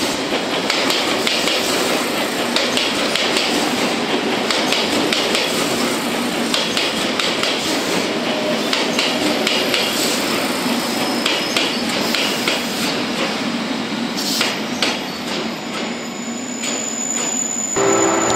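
JR Kyushu 883 series 'Sonic' electric train running past through the station tracks, its wheels clacking in a dense run of sharp knocks over the rail joints and points. The clacking thins out toward the end as the last cars go by.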